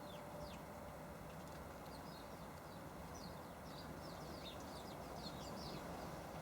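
Small birds chirping in a rapid string of short, high, falling notes, thickest in the middle and later seconds, over a steady low background hiss.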